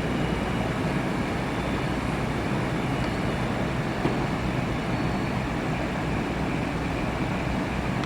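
Steady rumble and low hum of a train at a mainline station, with no distinct events.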